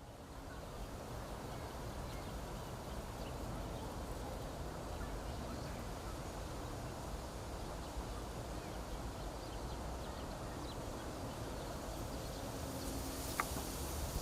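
Wind blowing through reeds: a steady rustling hiss with a deep rumble of wind on the microphone, fading in at the start. Faint scattered chirps and a single sharp click come near the end.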